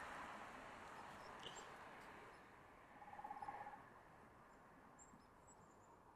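A woodpecker drumming: one short, rapid roll of taps about three seconds in, lasting under a second. Faint bird chirps are scattered around it.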